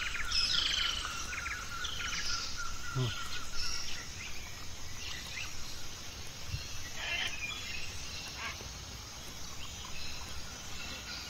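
Wild birds chirping in woodland, repeated short falling calls that come thickest in the first few seconds and thin out later, over a steady high hum that fades about four seconds in.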